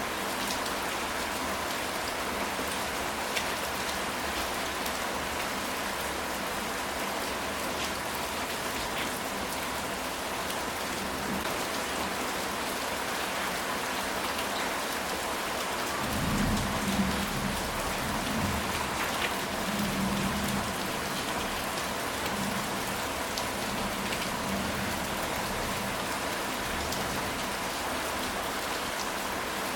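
Steady rain falling on a ceramic tile roof. About halfway through, a low rumble of thunder swells and rolls on for several seconds before fading back under the rain.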